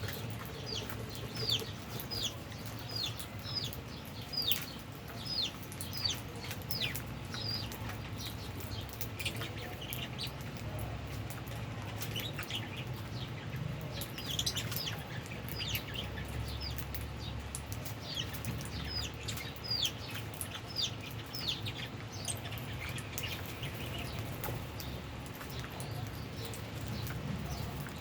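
A flock of lovebirds chirping: many short, high chirps that drop in pitch, coming about two a second in busy stretches, with scattered sharp clicks and a steady low hum underneath.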